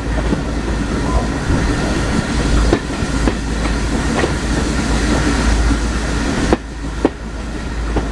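Heritage railway carriage running along the track, heard from on board: a steady rumble with wheels clicking over rail joints, and two sharper knocks near the end.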